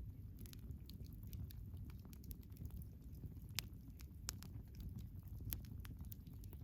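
Wood campfire crackling, with many small irregular pops and one sharper pop about halfway through, over a low steady rumble of the burning fire.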